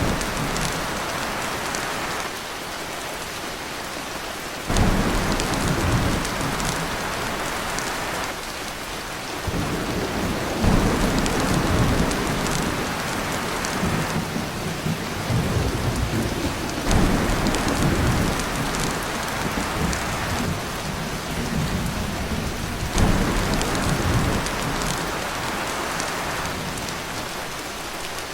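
Heavy rain pouring steadily on a tin roof, with low thunder rolls that start suddenly and fade, about every four to six seconds.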